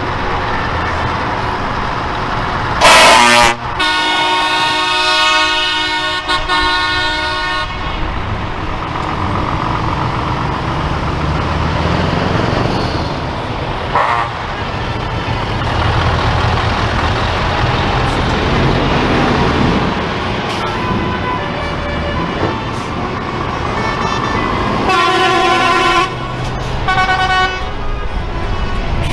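Trucks driving past with diesel engines running and blowing air horns. A very loud short blast comes about three seconds in, then a long multi-tone horn chord held for about four seconds, with another horn chord near the end.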